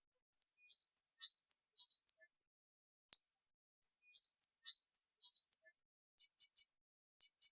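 Kemade bird giving clear, loud 'cit' calls: short high chirps, some sweeping up and some down, in quick runs of several notes separated by brief pauses.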